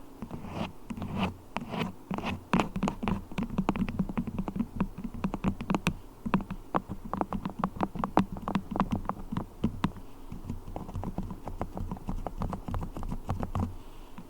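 Beeswax being tapped and scratched close to the microphone: a quick, irregular run of many small clicks and taps.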